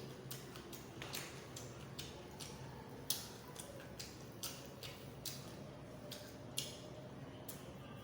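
Close-miked chewing: a person eating, with wet mouth clicks and smacks in an even rhythm of about two a second.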